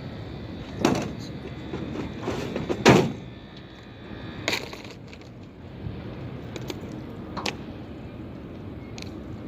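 A handful of separate knocks and clunks, the loudest about three seconds in, over a steady background hiss.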